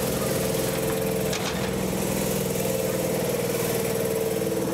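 Kintetsu electric train standing at the platform with its doors open, its on-board machinery running with a steady, rhythmic mechanical drone.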